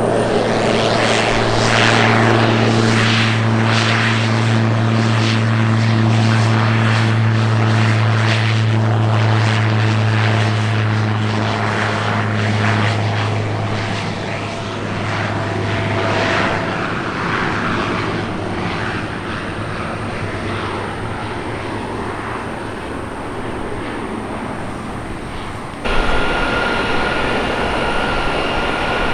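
Propeller aircraft engine running with a steady low propeller drone under a rushing noise, the drone fading away after about half the time. Near the end the sound changes abruptly to a different aircraft engine with a steady high whine.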